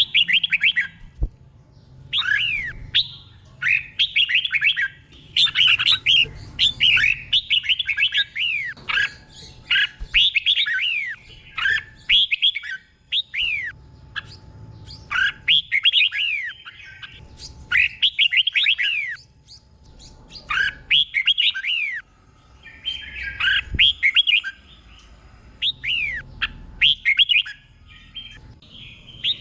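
Red-whiskered bulbul singing: a run of short, quick phrases of sweeping whistled notes, repeated every second or two.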